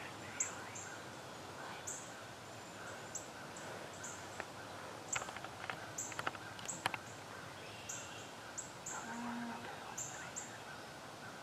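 Quiet woodland ambience with small birds giving short, high, thin calls over and over at irregular intervals. A few sharp clicks and rustles come about five to seven seconds in.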